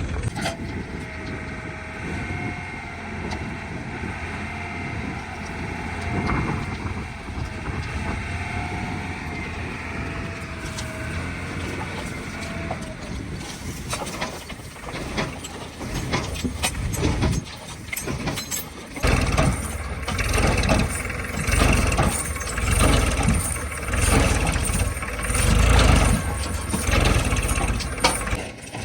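Diesel machinery at work as a JCB 3DX backhoe loader loads mud into a tractor trolley: a steady engine run with a wavering whine, turning louder and uneven, with low surges and knocks, from about two-thirds of the way through.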